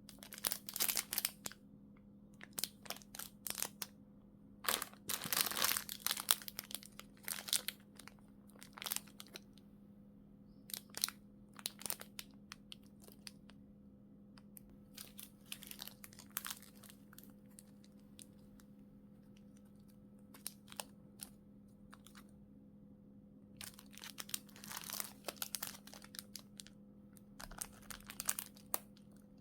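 Plastic packaging film crinkling and rustling in irregular bursts as it is handled. The bursts are busy for the first dozen seconds, thin out to scattered crackles in the middle, and pick up again near the end. A faint steady hum sits underneath.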